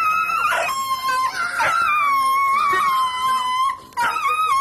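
Dog howling in long drawn-out notes: one held about three seconds and sliding slowly lower, then a shorter note near the end.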